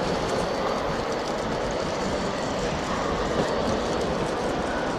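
N-scale model train running along the layout's track, a steady rolling rattle with fine ticking, over the steady background noise of an exhibition hall.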